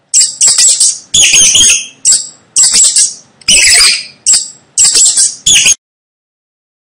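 Mouse squeaking: a quick series of short, high-pitched squeaks in clusters, stopping about a second before the end.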